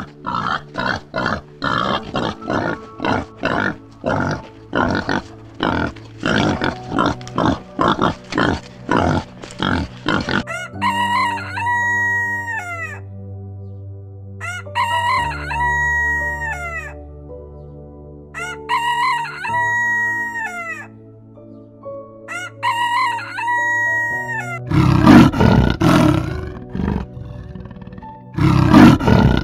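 A wild boar grunting in quick repeated bursts, then a rooster crowing four times, then a leopard roaring in loud rasping bursts over the last few seconds, all over soft background music.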